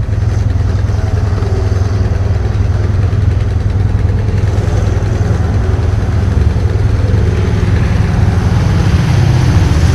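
ATV engines running close by, a steady low rumble.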